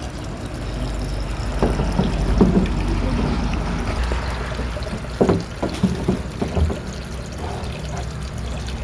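Water pouring steadily into a fish pond from its supply line as the pond is refilled.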